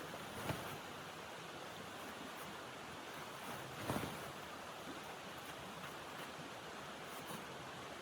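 Steady rushing blizzard wind, with two short sharp pops, one about half a second in and a louder one about four seconds in.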